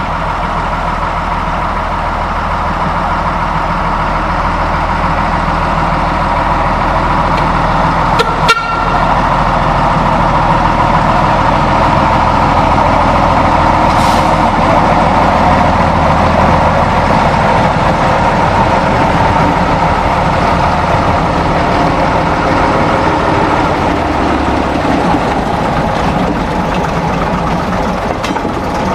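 Heavy diesel railway engine running steadily at idle, growing a little louder after about ten seconds. A brief sharp sound, like a short toot, cuts in about eight seconds in.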